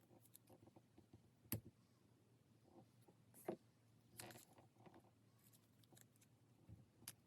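Faint, sparse desk sounds of stationery being handled while decorating a paper diary: a few sharp clicks and taps, the loudest about a second and a half in, and a brief scratchy rustle around four seconds in.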